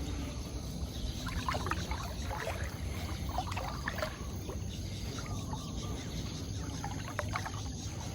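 Floodwater splashing and sloshing in three clusters a couple of seconds apart, as someone moves slowly through deep water, over a steady low rumble.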